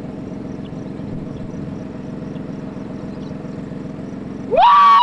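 A vehicle engine running steadily with a low hum. About four and a half seconds in, a man lets out a loud, rising, excited "woo!"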